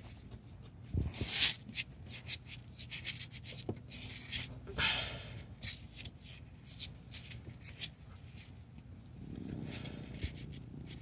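Handling noise: soft rustling and scraping with scattered small clicks and taps, as bedding and newborn kittens are moved. There are two louder rustles, about a second and a half in and about five seconds in.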